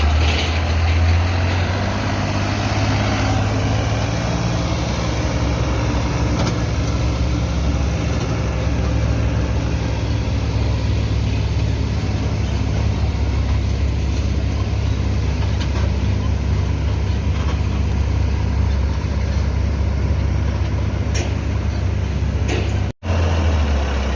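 Massey Ferguson 9500 tractor's diesel engine running steadily as it pulls a sugarcane-loaded trolley. The sound breaks off for a moment near the end.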